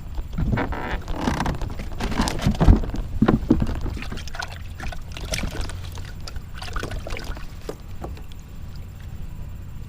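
Water splashing and irregular knocks against a kayak as a just-landed catfish is handled. The loudest hit comes about two and a half seconds in, followed by lighter clicks and taps.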